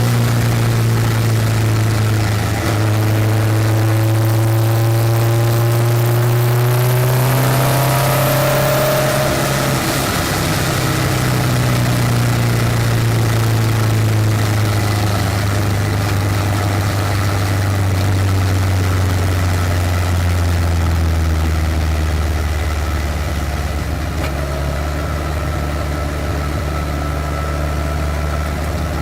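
Westfield race car engine heard on board, running at fairly low, steady revs. Its pitch sinks slowly through the middle of the stretch, then holds steady at a lower speed.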